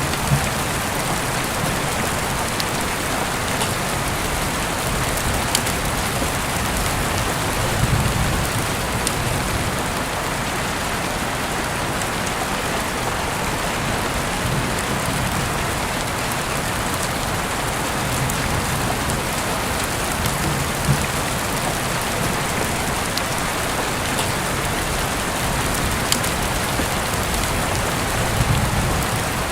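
Heavy rain falling steadily, heard through an open window: an even hiss of rain with scattered drop ticks and a few soft low swells.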